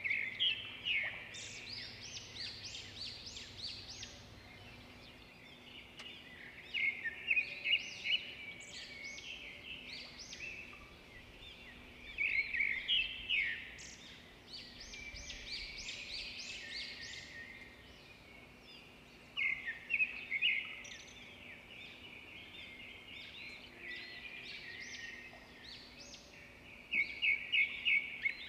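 A bird singing: bursts of fast, repeated chirps and trills, one phrase every six or seven seconds, over a faint steady hum.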